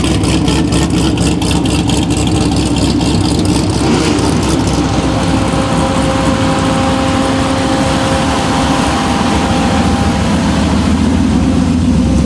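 Car engine running loudly at low revs, pulsing rapidly for the first few seconds, then settling into a steadier note.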